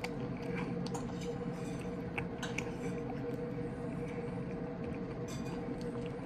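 Chewing and fingers tearing apart a piece of air-fried chicken breast, with a few short soft clicks over a steady low hum.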